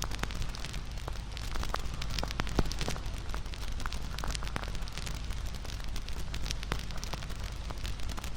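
Wood fire burning, with irregular crackles and snapping pops over a low steady rumble of flame; the sharpest pop comes a little before the middle.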